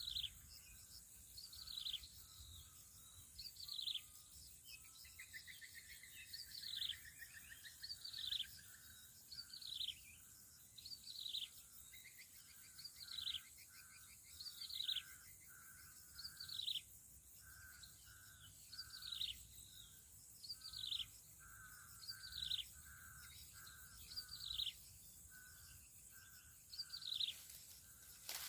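A bird repeatedly calling a short whistled note that falls in pitch, about once every second and a half, with shorter pulsing calls underneath and a steady high hiss behind.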